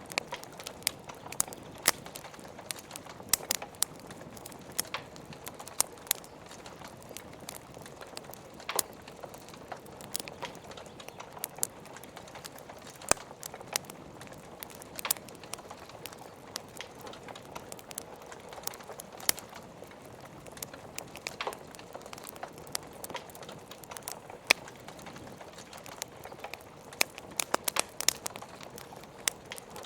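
Log fire crackling, with sharp pops and snaps at irregular moments over a steady hiss of rain; a quick run of pops comes near the end.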